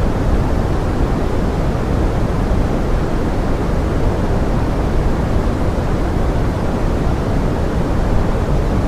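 Steady pink noise blended with forest rain: an even, unbroken rushing hiss, heaviest in the low end and thinning toward the top, with no separate drops or other events standing out.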